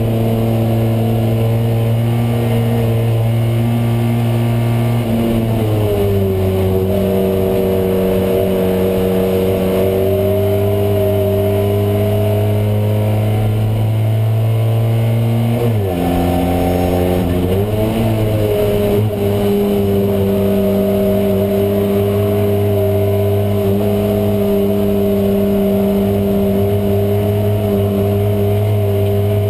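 Fiat 126p race car's air-cooled two-cylinder engine running at steady high revs, heard from inside the stripped cabin. The engine note drops in pitch about five seconds in, and around sixteen seconds in the revs dip sharply and climb back.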